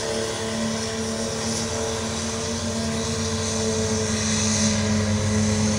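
Diesel pulling truck's engine running hard at high, steady revs under load.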